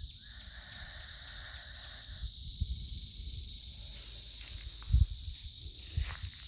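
Steady high-pitched insect chorus, such as crickets, going on without a break, over a low rumble, with a single thump about five seconds in.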